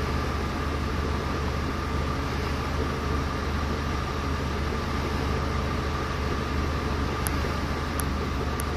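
Toyota Avanza engine idling steadily: an even low hum that doesn't change.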